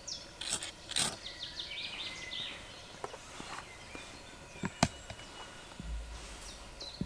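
Woodland birds calling: many short, high, falling chirps, repeated throughout, with a few sharp clicks in between. A low hum comes in near the end.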